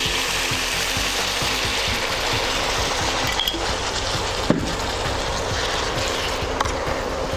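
Chicken frying in masala, sizzling steadily in a pan as water is poured in, then stirred with a wooden spatula near the end.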